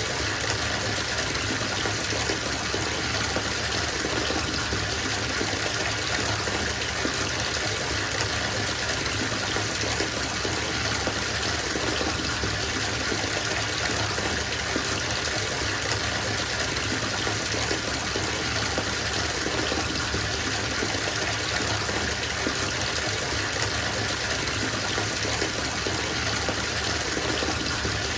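Bathtub filling from the tap: a steady gush of running water pouring into the tub, even and unchanging.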